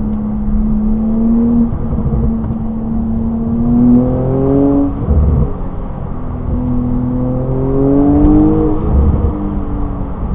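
Porsche 992 Turbo S twin-turbo flat-six engine pulling under acceleration, heard from inside the cabin. Its pitch climbs twice, and each climb breaks off abruptly, once around the middle and once near the end. Tyre and road noise run underneath.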